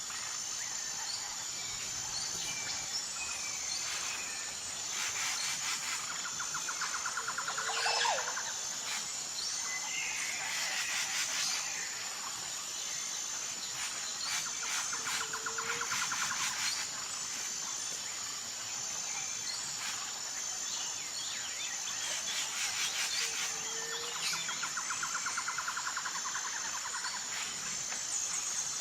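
Forest ambience: insects trill steadily and high in a fast pulsing buzz, while birds call over it in rapid note trains and short chirps. The same set of calls comes back about every eight seconds.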